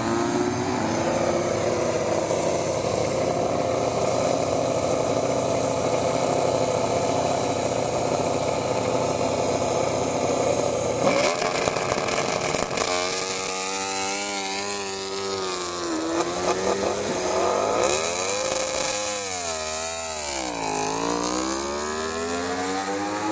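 MotoGP racing motorcycles' four-cylinder engines running together at high revs in a steady, dense din, then from about halfway individual engines revving up and down, the pitch swooping low and climbing again near the end.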